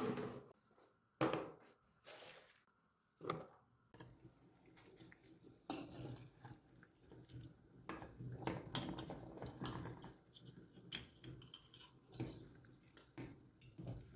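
Dishes and kitchen utensils being handled: a few separate knocks in the first few seconds, then a steady run of small clinks and clatters.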